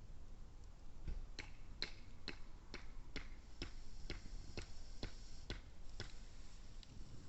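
Wood campfire crackling: a run of sharp pops, about two a second, over a low steady background, with a faint high whistle joining about halfway through.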